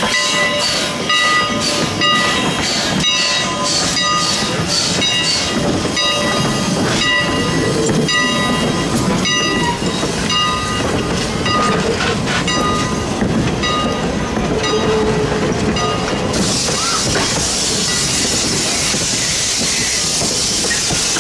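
Steam-hauled passenger train rolling past, its wheels clicking over the rail joints, while a bell rings about twice a second and fades out about two-thirds of the way through. Near the end a steady hiss comes in suddenly.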